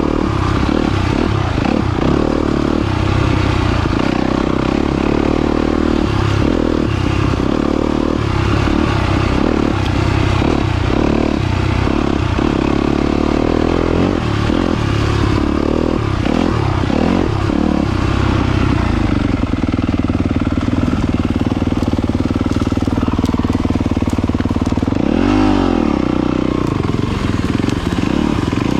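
Yamaha YZ250FX dirt bike's four-stroke single-cylinder engine running on a trail ride, its pitch rising and falling with the throttle. Near the end there is a quick rev up and back down.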